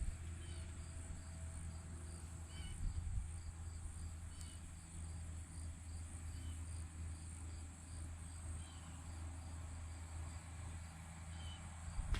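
Crickets and other insects chirping: a steady high trill with a pulse repeating about twice a second, over a low rumble.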